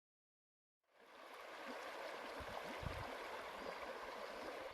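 Faint, steady rush of flowing river water that fades in about a second in, with a few low thumps around the middle, and cuts off suddenly at the end.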